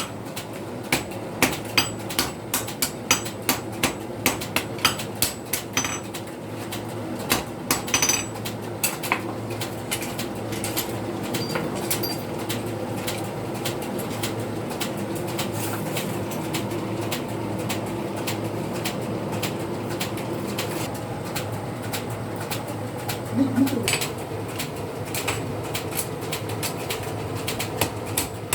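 Blacksmith's hammer striking steel on an anvil, about two or three blows a second; the hammering stops after about eight seconds, leaving a steady hum.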